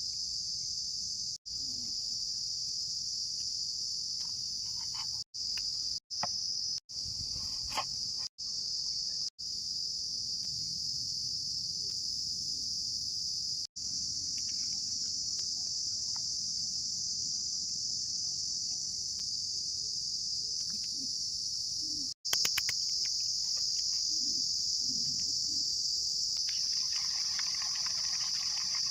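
A steady, high-pitched insect chorus like crickets chirring, broken off abruptly by several brief dropouts, with a softer hiss joining in near the end.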